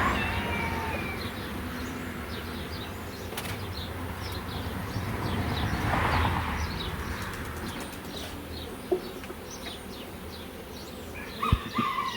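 Birds chirping and calling again and again over the low hum of honeybees flying around an opened hive, with a couple of sharp knocks in the second half.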